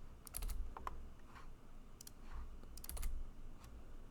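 Computer keyboard keys clicking in short irregular clusters of a few keystrokes each, over a low steady hum.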